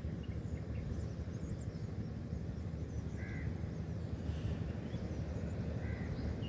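A bird gives short calls twice, about three seconds in and near the end, over a steady low rumble of outdoor background noise.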